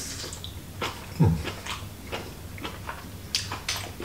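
Close-up eating sounds as chicken and onion are bitten and chewed off a shashlik skewer: a series of short wet mouth clicks and smacks. A brief low sound about a second in is the loudest moment.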